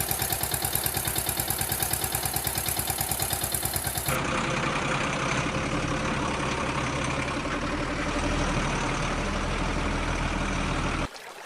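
A diesel-type vehicle engine running with a regular chug, about six beats a second. About four seconds in it cuts abruptly to a different, steadier engine sound, which stops suddenly near the end.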